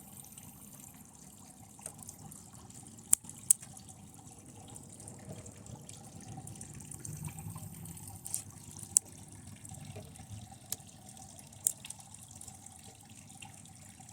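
TV circuit board components burning and sizzling under high current from a lead-acid battery: a low crackle with sharp pops every few seconds, the loudest pair about three seconds in.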